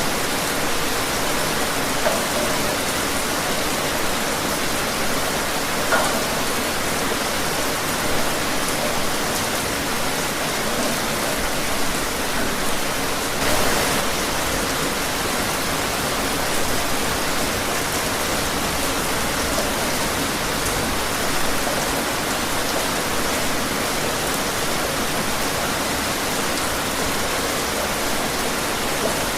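Steady rain falling outdoors, an even hiss of many drops, with a few slightly louder drop splashes now and then.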